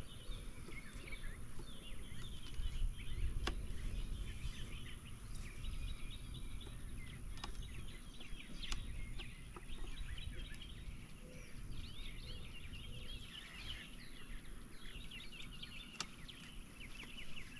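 Small birds chirping busily in quick, short calls over low outdoor rumble and a steady high whine, with a few sharp clicks.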